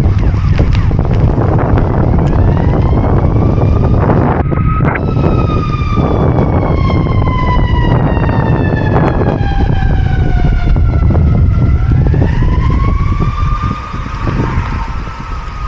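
Strong wind buffeting the microphone with a loud, steady rumble. Through it a siren wails, its pitch climbing slowly, sinking over several seconds, then climbing again near the end.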